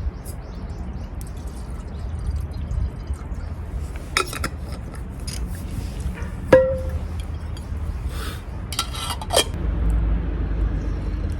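Metal camp cookware being handled: scattered clinks and clatters, with one sharp ringing clink just past the middle, over a steady low rumble.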